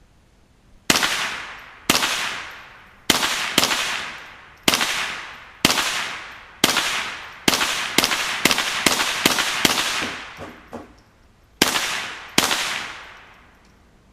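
A GSG MP40 replica in .22 LR fired at a mailbox: about sixteen sharp, loud shots at uneven spacing, with a quicker run of shots in the middle, each one trailing off in a long echo.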